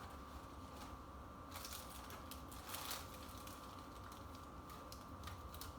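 Faint rustling and a few light clicks of plant packaging being handled, over a steady hum.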